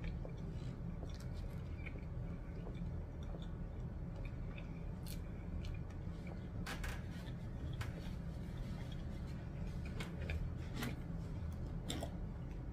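Close-miked chewing of a cheeseburger and fries, with scattered sharp wet mouth clicks and smacks. A steady low hum runs underneath.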